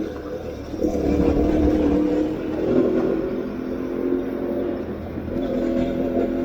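Aprilia Tuareg 660's parallel-twin engine running as the bike is ridden off-road, its note rising under throttle about a second in and shifting pitch again midway and near the end.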